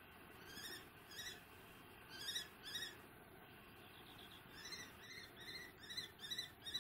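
A bird of prey calling: short high notes, each rising then falling. They come in two pairs at first, then a quicker run of about six in the last two seconds.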